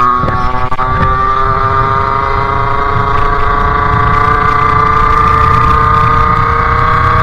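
Sherco 50cc two-stroke engine with a KRM exhaust and Polini CP 17.5 carburettor, running under way. Its note cuts in and out briefly within the first second, then climbs slowly and steadily in pitch as the bike gathers speed.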